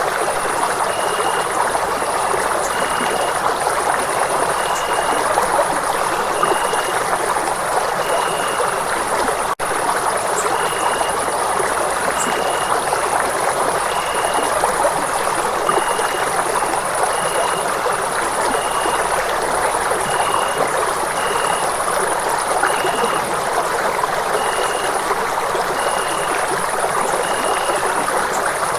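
Steady rushing of running water in a stream, an even hiss with no let-up. A short high chirp repeats about once every second or so over it, and the sound drops out for an instant about ten seconds in.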